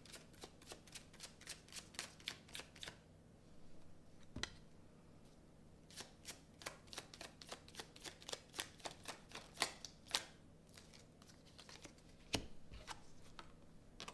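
Kipper fortune-telling cards being shuffled by hand: faint runs of quick, crisp card flicks, broken by a couple of single soft knocks.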